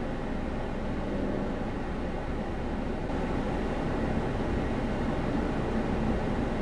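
Steady road and engine noise of a car driving, a dashcam's recording from inside the cabin.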